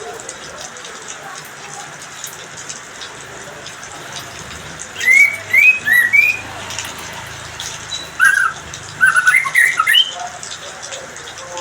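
A bird calling in two bursts of short, quick rising chirps, the first about five seconds in and the second about eight seconds in, over a steady hiss of spraying or falling water.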